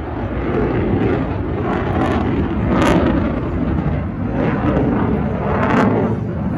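Loud jet roar of an F-16 flying its airshow display, a steady rumble that swells about three seconds in and again near the end.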